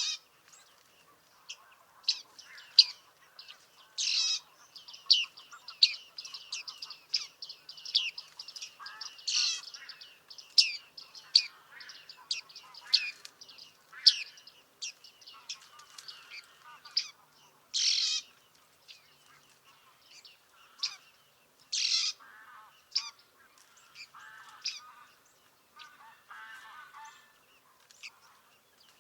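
Bearded tits calling: many short, high calls in quick succession, with a softer, lower chattering underneath.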